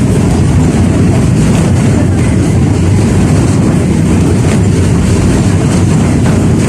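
71-605A (KTM-5A) tram running along the track: a loud, steady low rumble from the wheels and running gear, with a few faint clicks.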